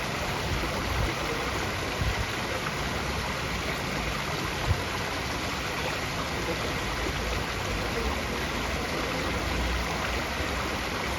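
Steady rush of flowing water, like a stream, with a few brief low thumps.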